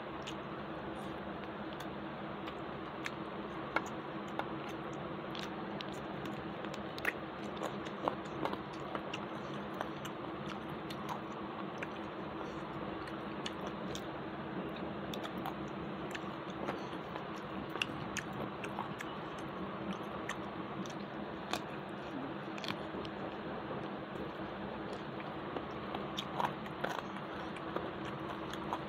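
A person chewing and biting a meal of rice, fried vegetables and chicken eaten by hand, with many scattered small crunches and clicks over a steady background hiss.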